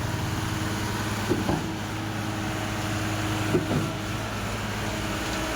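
Concrete pump and its diesel engine running steadily while pumping concrete through a long pipeline, with a short knock about every two seconds.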